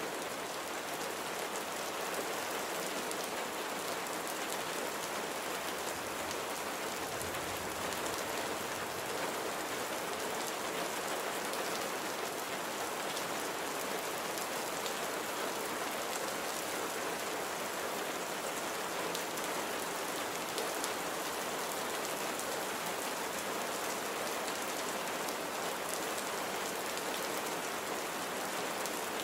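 Steady rain falling, with the patter of drops on surfaces.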